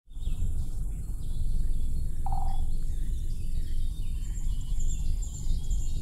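Birds chirping high over a steady low rumble, with one short, lower call a little over two seconds in.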